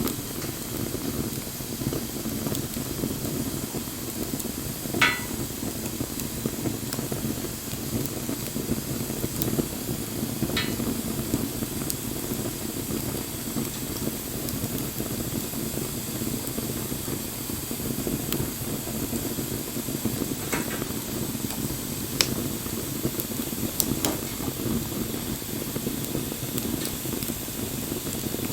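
Wood fire burning with a steady hiss and rustle, broken by occasional sharp crackles and pops from the burning wood; the loudest pop comes about five seconds in.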